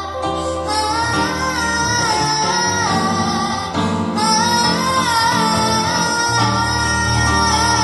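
A girl singing long, held notes with vibrato over a backing track that includes guitar.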